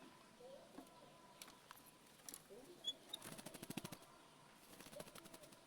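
Oriental magpie-robin (kacer) singing softly: scattered clicks and short high chirps, with a fast clicking rattle about three seconds in and a shorter one near the end.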